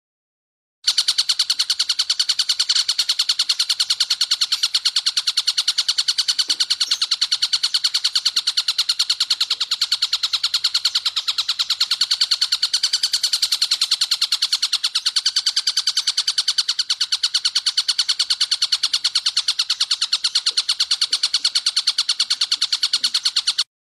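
Tengkek buto kingfisher calling in a long, fast, even rattle of sharp high notes. It starts just under a second in and cuts off suddenly near the end.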